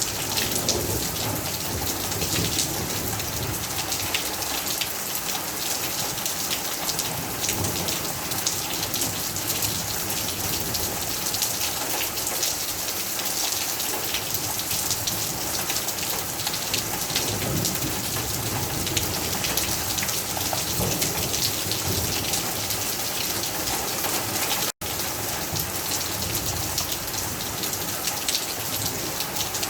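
Heavy rain falling steadily, with dense drops pattering on surfaces and low rumbles of distant thunder now and then. The sound cuts out for an instant near the end.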